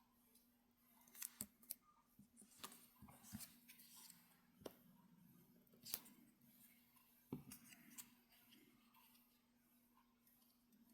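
Faint paper-crafting handling noise: scattered soft clicks and rustling of paper pieces being glued together by hand, over a faint steady low hum.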